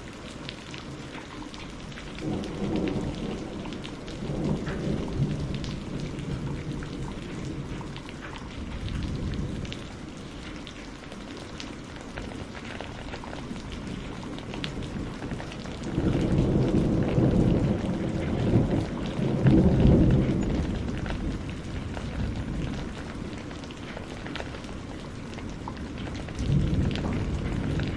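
Steady rain falling, with thunder rumbling several times over it; the longest and loudest roll of thunder comes a little past halfway, and another begins near the end.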